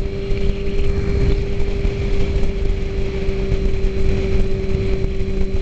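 Suzuki GSX-R inline-four motorcycle engine running at a steady pace: a constant hum with a loud, rough low rumble underneath.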